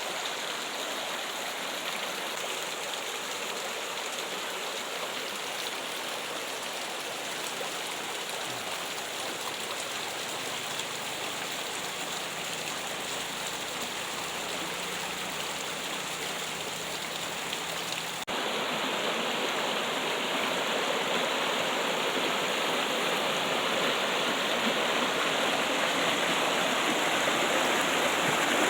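Steady trickling, running water, like a small stream. About two-thirds of the way through it suddenly steps up louder and fuller, then carries on steadily.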